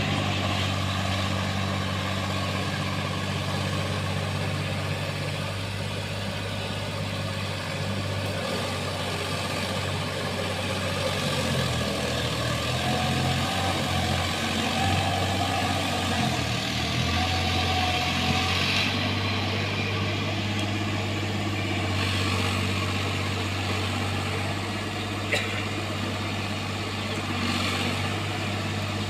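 Sonalika tractor's diesel engine running steadily, its low note wavering and shifting for a while in the middle.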